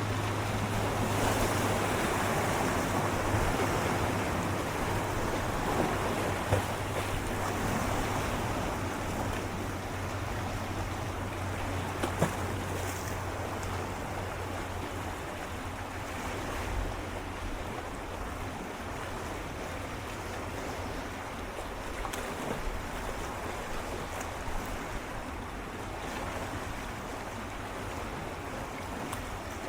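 Gentle ocean waves swirling and lapping against shoreline rocks close up, the wash swelling louder over the first several seconds and then settling, with a few sharp little splashes. A low steady hum runs underneath through the first half and fades out about halfway.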